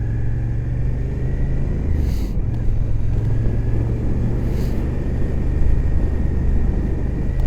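Suzuki GSX-8S's parallel-twin engine running at a steady cruise, heard through a helmet microphone under wind and road noise.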